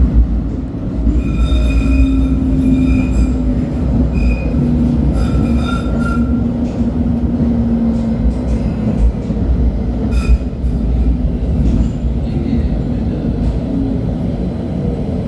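LHB TW2000 light-rail car running, with the steady rumble of its running gear. High wheel squeal comes and goes in the first half and briefly again about ten seconds in, over a low hum that slowly falls in pitch, with scattered clicks from the track.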